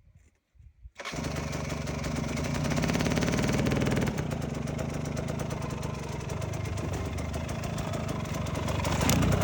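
Two-stroke dirt bike engine (Husqvarna TE300) catching about a second in after near silence, then running at a fast idle with its pitch shifting, and a louder blip of throttle near the end.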